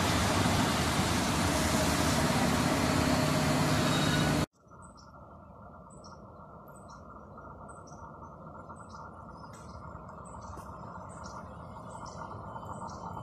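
Loud, steady rumbling hiss with a low hum from a passenger train hauled by an electric locomotive moving through the station; it cuts off sharply after about four and a half seconds. Then a much quieter low rumble that slowly grows as a Koleje Dolnośląskie electric multiple unit approaches round a curve, with short high chirps repeating about once a second.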